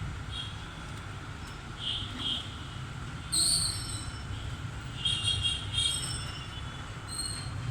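Guinea pigs squeaking: short, high-pitched squeals come several times, the loudest about three and a half seconds in, over a steady low hum.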